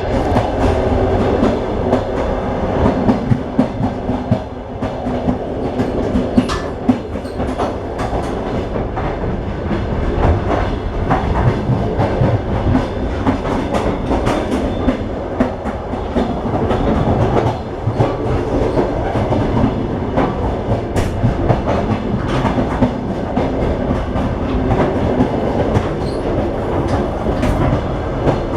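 Train running on the rails: a steady rumble with frequent clicks and knocks of wheels clattering over rail joints.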